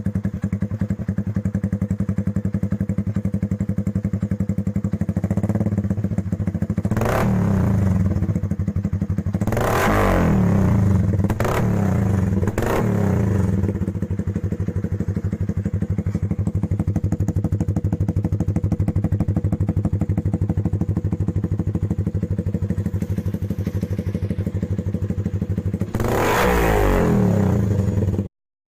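Yamaha MX King 150's single-cylinder four-stroke engine idling through an aftermarket exhaust, revved in short throttle blips several times, then switched off just before the end.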